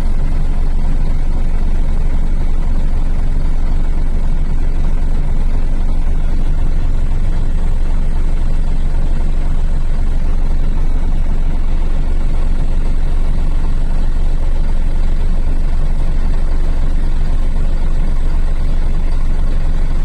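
Steady low drone of a Scania lorry's diesel engine running, holding an even pitch and level throughout.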